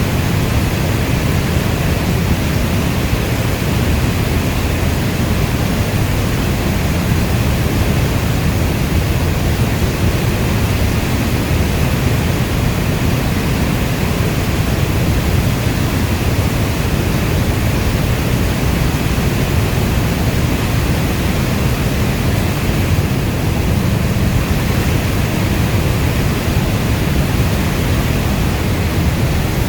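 Steady, dense rain noise with a deep low rumble and no individual drops or thunder standing out.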